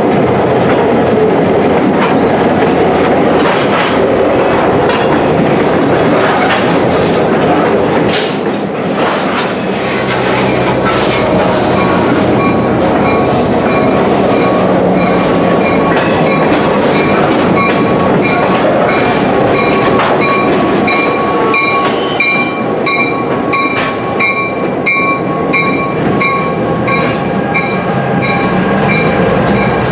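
EMD GP38-2 diesel-electric locomotive and a covered hopper car rolling past close by, wheels clacking over the rail joints and the locomotive's two-stroke diesel running. A steady high wheel squeal comes in about ten seconds in, and a rhythmic high ringing repeats through the second half.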